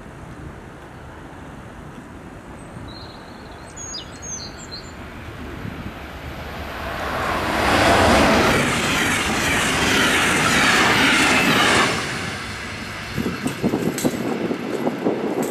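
Danish IC3 (DSB class MF) diesel multiple unit passing at speed. Its rushing wheel-and-rail noise builds over several seconds to a loud peak, then cuts off abruptly about twelve seconds in. Uneven, gusty rumbling follows.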